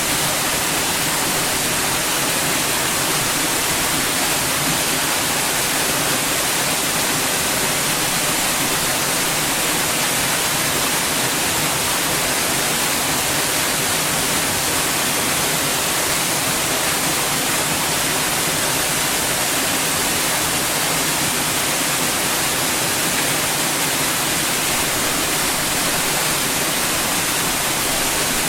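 Steady white noise: an even, unbroken hiss, strongest in the treble.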